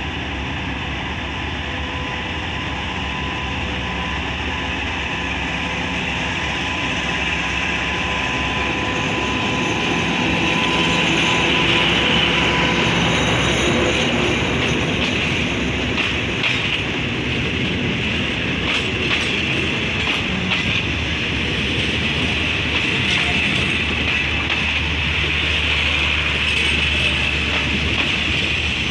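Diesel-hauled passenger train rolling slowly past at close range. The sound grows louder as the locomotive draws near and passes, peaking about twelve seconds in, then the coaches roll by with faint wheel clicks over the rail joints.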